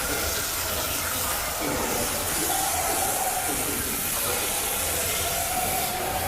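Water spraying steadily from a grooming-tub hose sprayer as a dog is rinsed. A faint steady hum joins about halfway through.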